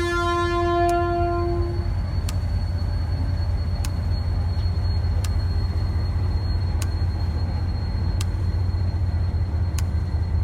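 EMD GT22 diesel locomotive heard from inside the cab: the horn chord sounds and cuts off about two seconds in, leaving the steady low rumble of the diesel engine. A sharp click comes about every second and a half over the engine.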